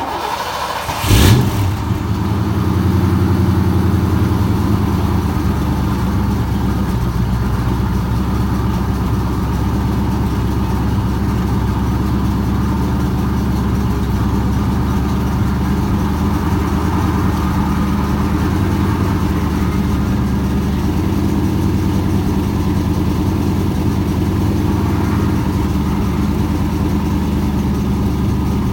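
Ford Mustang engine cold-started: it cranks briefly, catches with a short loud rev about a second in, then settles into a steady idle.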